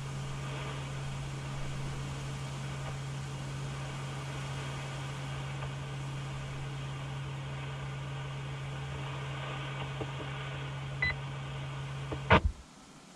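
Ham radio receiver hissing on an open, unmodulated repeater carrier with a steady low hum. A short beep comes about 11 seconds in, then a burst of static as the carrier drops and the squelch closes, and the hiss cuts off.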